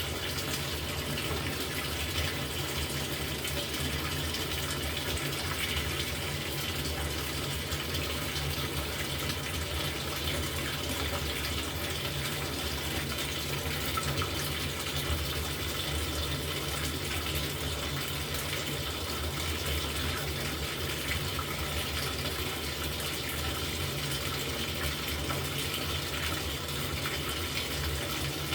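LG top-loading washing machine filling its tub: a steady rush of water running in, with a low hum underneath.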